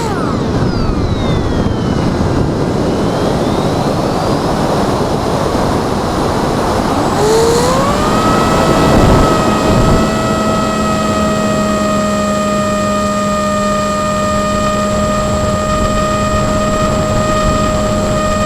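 Remote-controlled aircraft's motor: its steady whine drops sharply as the throttle is cut, giving way to several seconds of loud rushing noise. The whine then climbs back up and holds steady as power returns.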